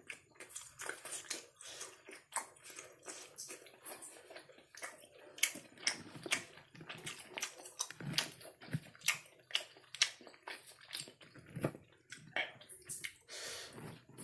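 Close-miked mouth sounds of a person chewing kerupuk basah (temet), a soft, chewy fish-and-tapioca roll: an irregular run of sharp smacks and clicks.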